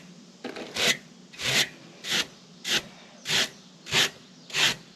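A brush being stroked upward along the fins of an RV air conditioner's coil, a scratchy stroke about every two-thirds of a second, seven times, brushing in the direction of the fins to clear dust without bending them.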